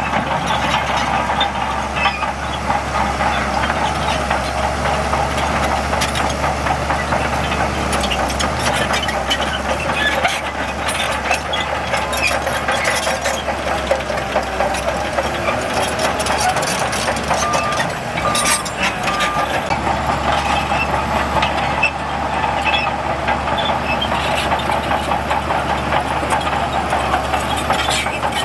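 Heavy earthmoving machinery running steadily, with constant rattling and clanking; three short beeps sound about eighteen seconds in.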